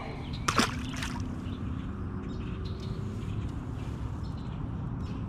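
A short splash about half a second in, typical of a released fish dropping back into the creek, followed by a steady low background rush.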